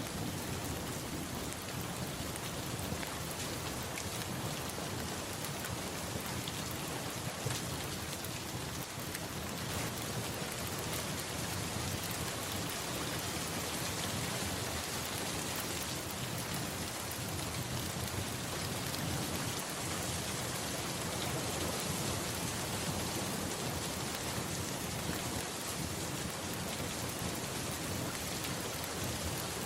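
Steady, even rainfall that neither builds nor fades.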